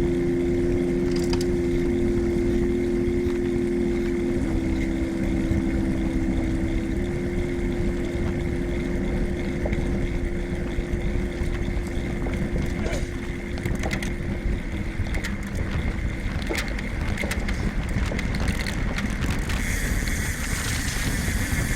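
Wind rumble on the microphone and tyre and road noise from a road bike being ridden, with a steady low hum through most of it that stops about two-thirds of the way in.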